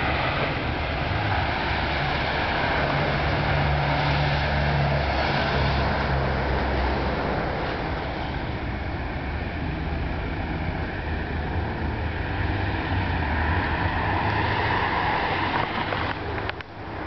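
A car engine running steadily nearby, a low even rumble under a broad wash of background noise.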